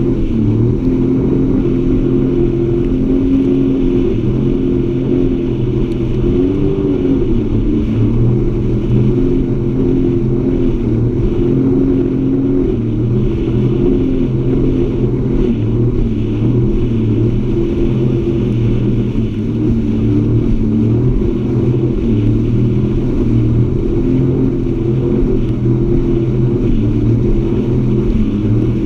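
Jet ski engine running steadily under way, loud and continuous, its pitch wavering a little.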